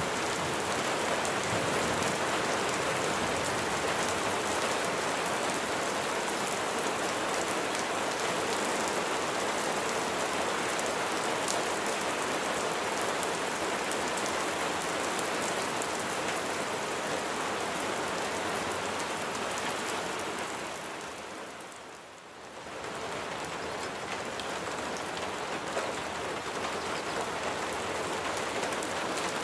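Steady rain falling on a surface, a dense even hiss with fine patter of individual drops. About two-thirds of the way through it fades down briefly and swells back up.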